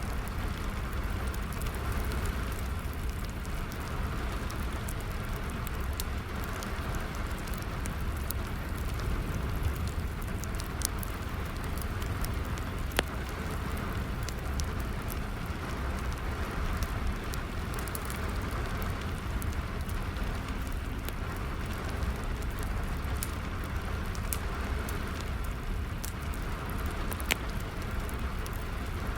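Steady rain mixed with a wood fire burning, with scattered sharp crackles and pops over a low, even rumble.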